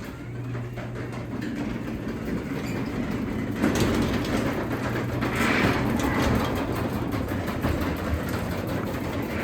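Craftsman 3/4 hp DC belt-drive garage door opener raising the door: a steady motor hum under the rumble and rattle of the door travelling along its tracks, growing louder about four seconds in.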